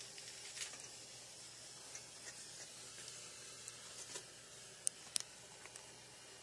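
Faint hissing and sizzling of a torch flame heating a water pipe joint while solder is melted onto it, with two sharp crackles about five seconds in.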